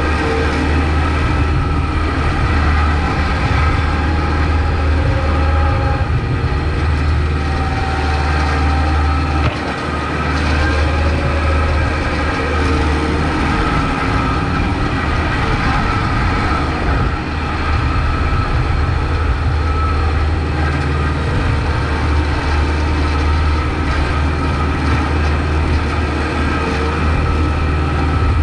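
Kubota MX5200 tractor's diesel engine running steadily while plowing snow. It makes a loud, deep drone with higher tones above it that waver slightly, and it eases off briefly twice, about ten seconds and eighteen seconds in.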